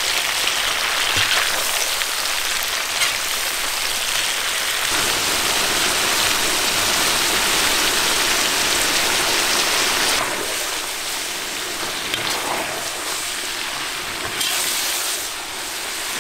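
Lamb ribs and sliced onions sizzling in hot oil in a kazan, a steady frying hiss. It grows louder about five seconds in and eases off about ten seconds in.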